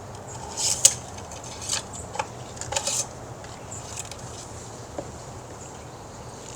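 Light metallic scrapes and clicks of an engine oil dipstick being drawn out of its tube and pushed back in, mostly in the first three seconds, with one more small click a few seconds later.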